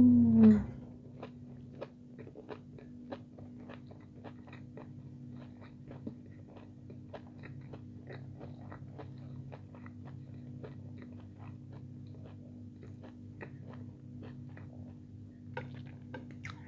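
Close-up chewing of crispy breaded chicken nuggets with the mouth closed: a steady run of small crunchy clicks, two to three a second, over a faint steady hum. A short hummed "mmm" comes at the very start, and there are a few louder clicks of a fork on a plate near the end.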